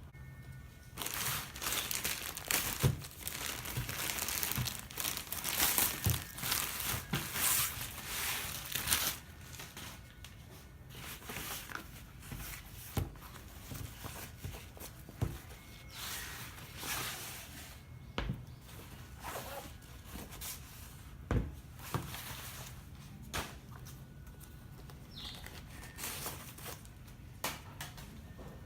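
Shoe packaging being unwrapped, crinkling and tearing: dense rustling for the first several seconds, then scattered shorter rustles with a few sharp knocks.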